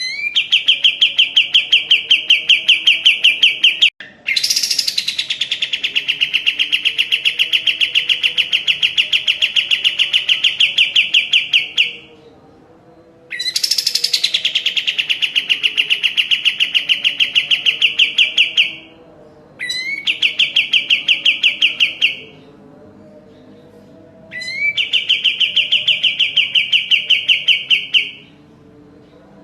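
A kapas tembak songbird singing its rapid trill: five long runs of fast, evenly spaced repeated notes at a steady high pitch, each several seconds long with short pauses between.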